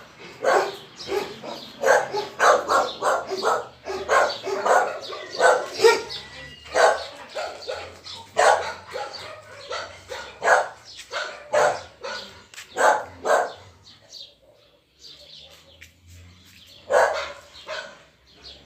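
Dog barking repeatedly in a fast run of short barks, which stops about three-quarters of the way through, followed by one more bark or two near the end.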